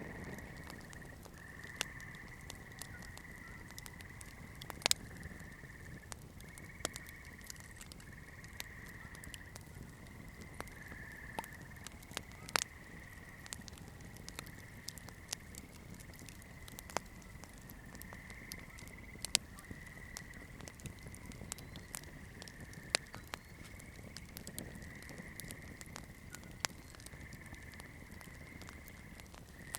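Wood campfire crackling, with irregular sharp pops and snaps over the low, even rush of the flames. A steady high-pitched trill runs behind it throughout.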